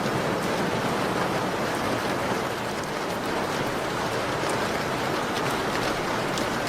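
Steady falling rain, an even dense hiss, with scattered faint crackles of a wood fire.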